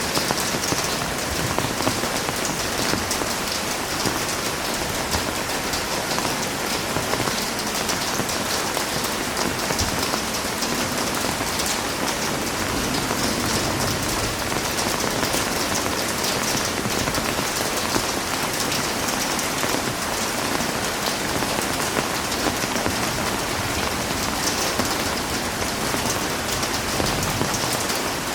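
Heavy rain falling steadily, a dense even hiss of drops pattering on surfaces, with no thunder.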